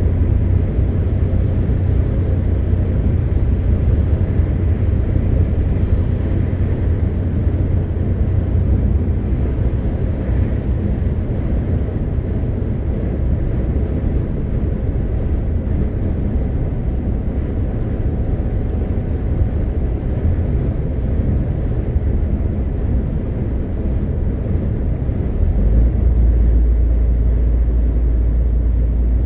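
MAN TGX 520 truck's diesel engine running under way, with tyre and road noise: a steady low rumble. The low hum shifts about a third of the way in, then turns deeper and louder near the end.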